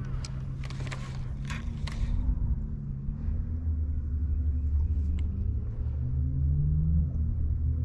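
A motor running with a steady low hum, which drops to a lower, stronger drone about three seconds in. A few sharp clicks come in the first two seconds.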